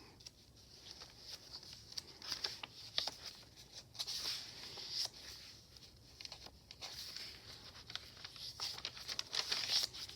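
Paper pages of a handmade journal rustling and crinkling as they are turned and handled, with many small irregular clicks and crackles.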